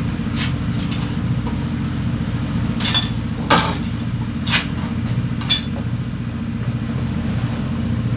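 A small single-cylinder scooter engine idling with a steady, evenly pulsing rumble, with four sharp metallic clinks in the middle.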